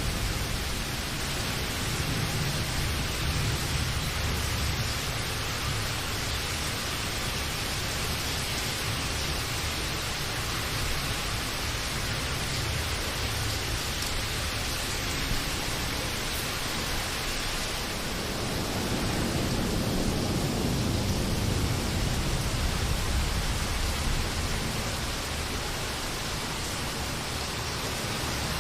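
Steady rain, a dense even hiss of drops, with a low rumble that swells near the start and again about two-thirds of the way through, like distant thunder.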